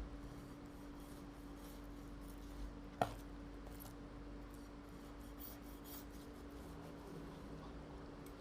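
Faint kitchen handling noises while a fish is being cleaned: quiet scrapes and ticks over a steady low hum, with one sharp click about three seconds in.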